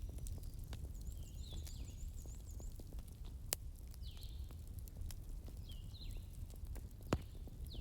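Wood fire crackling: scattered sharp clicks and a couple of louder pops, about three and a half seconds in and near the end, over a steady low rumble. Faint short high chirps recur about once a second.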